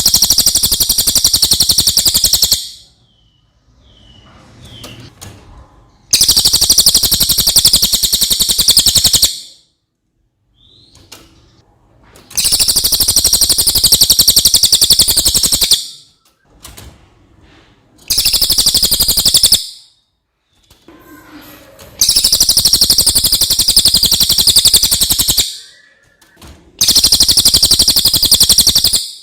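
Cililin (Javan hanging parrot, serindit) singing: six loud spells of rapid, high, shrill chirping, each a couple of seconds long, with short pauses between them.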